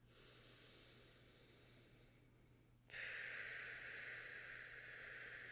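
Steady rushing wind sound, a plain hiss without pitch that comes in suddenly about three seconds in, after a fainter hiss.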